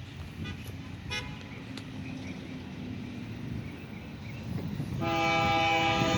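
Diesel freight train rumbling low as it approaches, then, about five seconds in, the lead locomotive's Nathan K3LA five-chime air horn begins a long, loud blast. The locomotive is a Union Pacific AC4400CW.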